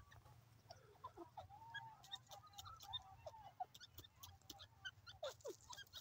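Faint, soft squeaky bird chirps, with a short wavering call in the middle and two quick downward-sliding calls near the end, amid scattered light clicks.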